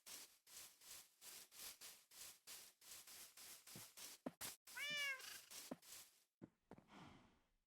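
A cat meows once, about five seconds in: a short call that rises and falls in pitch. Around it run faint short scratchy strokes, about three a second.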